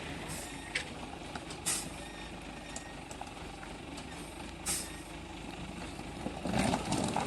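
Truck engine running steadily, with short air-brake hisses three times. A louder noise builds near the end.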